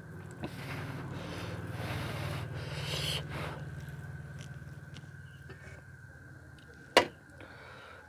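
Close-miked chewing and lip-smacking of a mouthful of rice and curry eaten by hand, loudest in the first few seconds. A single sharp clink of tableware about seven seconds in.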